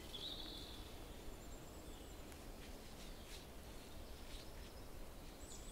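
Faint mixed-forest ambience with distant birds singing: a few high, thin whistled notes and short chirps over a steady low background noise.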